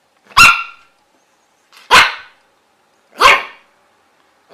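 Dog barking: single sharp barks at an even pace, about one every second and a half, three in all with a fourth starting at the very end.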